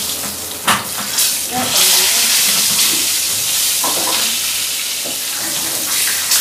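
Fish frying in hot oil in a pan, a steady sizzle, with a few sharp clicks of metal tongs against the pan as a piece is turned and lifted out.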